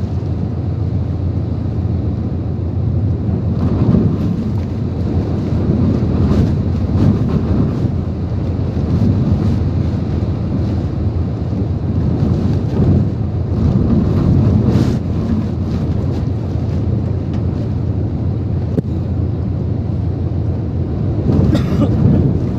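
Typhoon wind blowing hard in repeated gusts, buffeting the microphone with a loud low rumble, with wind-driven rain hissing underneath.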